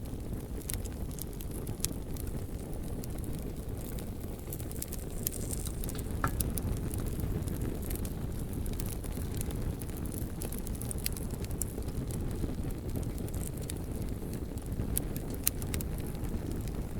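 Bonfire burning with a steady low rumble and scattered sharp crackles from the logs, plus a few louder pops.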